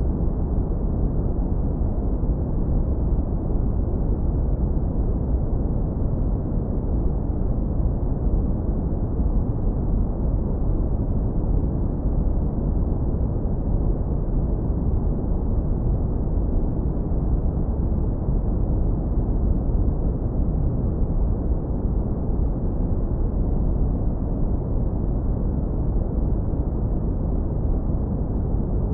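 Continuous brown noise, low-pass filtered hard so that only a deep, warm rumble is left, with nothing in the upper range. It holds perfectly steady, with no changes or events.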